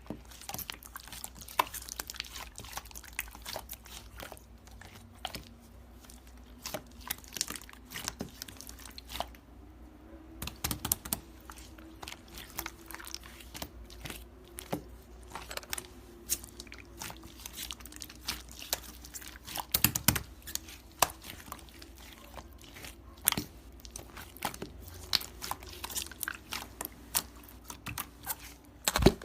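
Slime being squeezed and poked by hand, giving a dense run of sticky clicks and small pops, with louder clusters now and then.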